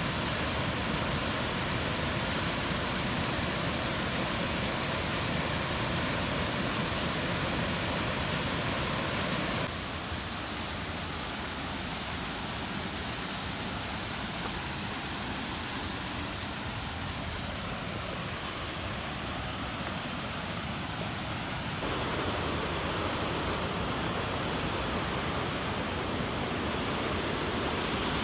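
Steady rushing of flowing water, like a small waterfall or rapids. It drops a little in level about ten seconds in and comes back up a little past twenty seconds.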